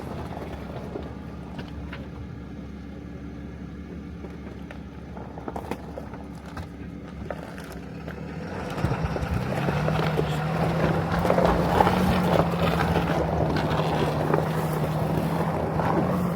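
Ram tow truck's Cummins diesel engine idling low, then about eight and a half seconds in it revs up and holds a steady, higher pitch under load as the truck pulls forward, with a louder rushing noise over it.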